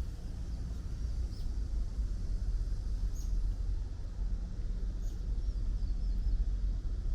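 Low, steady city traffic rumble with small birds giving short high chirps every second or two, several in quick succession a little past the middle.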